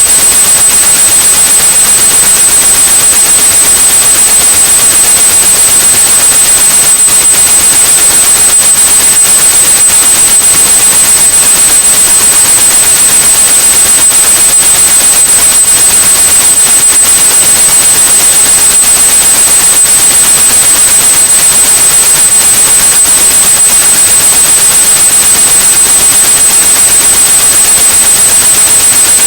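Synthetic white noise with a steady high-pitched 8100 Hz sine tone laid over it, a continuous, unchanging hiss and whine meant to mask tinnitus.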